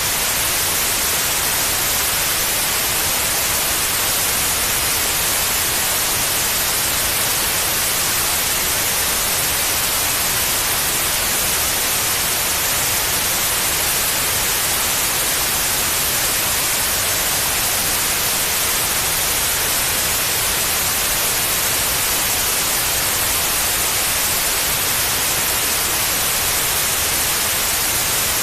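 Steady white noise: an even, unchanging hiss, brighter in the high frequencies, played to soothe a baby to sleep.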